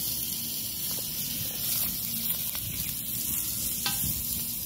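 Onions, peppers and garlic sizzling steadily in hot olive oil in a pan over a campfire, with a light clink of a utensil on the pan about four seconds in.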